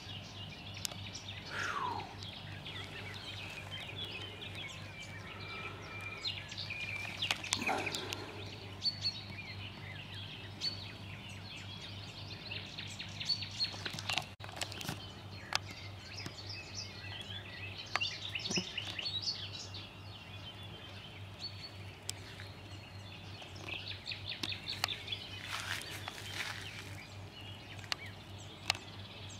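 Small birds chirping and trilling on and off, over a steady low hum.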